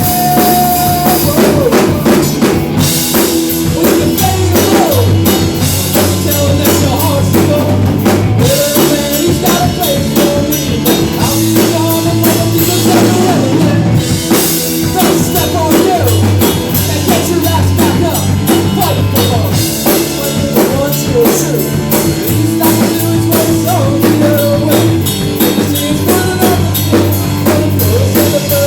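Live rock band playing an instrumental stretch of a song: drum kit with bass drum and rimshots keeping a steady beat under sustained bass notes and a melody line with sliding notes.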